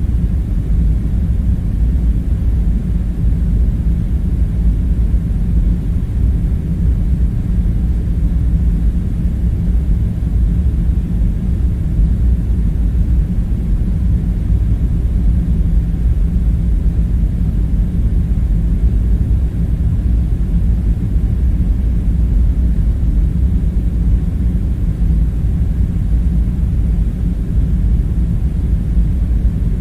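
A steady, low background rumble with no separate events.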